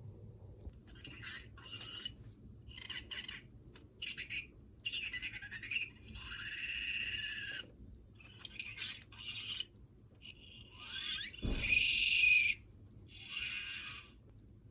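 Electronic creature toy sounding a string of short chirping, warbling sound effects through its small speaker, with pitch glides and pauses between calls. A low knock comes about eleven and a half seconds in.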